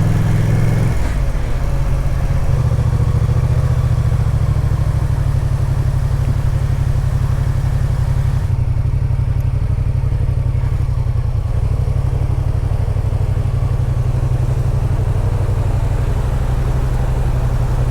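Motorcycle engine running steadily while the bike is ridden: a deep, even drone with a slight change in pitch about a second in.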